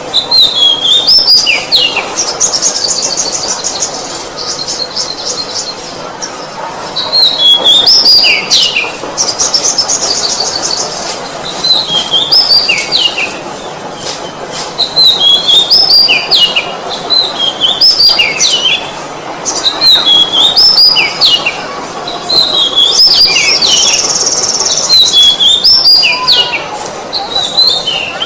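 Oriental magpie-robin (kacer) singing loudly: phrases of sweeping whistled notes, one every couple of seconds, broken by several rapid buzzy trills. A steady hiss runs underneath.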